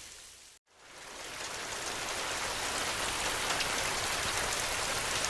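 Steady rain falling, a dense even hiss of drops. Just over half a second in it fades out to a moment of silence, then swells back up over the next second and holds steady.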